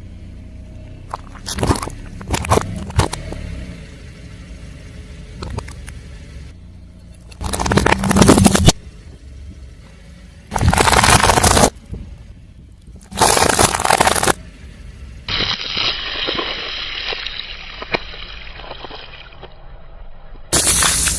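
Car tyre rolling over and crushing crunchy objects: three loud crunching bursts, each about a second long, with smaller cracks between them and a softer crackling stretch later on.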